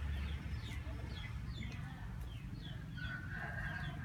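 Birds chirping in short falling notes, several a second, with a longer held call starting about three seconds in, over a steady low rumble.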